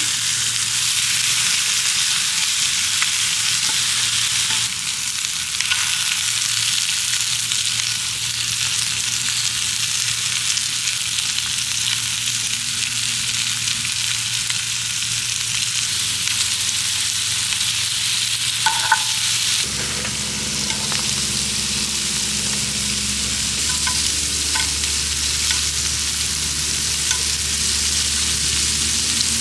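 Meat sizzling and frying steadily on a hot cast-iron griddle, with a few light clicks.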